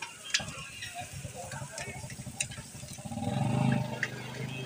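Shami kababs sizzling on a large flat griddle while a metal spatula scrapes and clicks against the griddle, turning them. About three seconds in, a low drone swells for a moment, louder than the sizzle, then fades.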